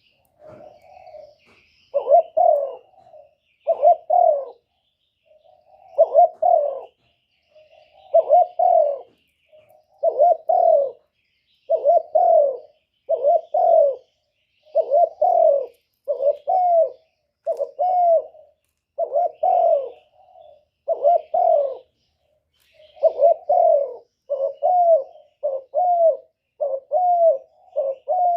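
Spotted dove giving its repeated low 'gù' coo, about one coo a second and coming faster near the end: the courting coo used as a lure call to draw wild doves in for trapping. Faint chirps of small birds sound higher up.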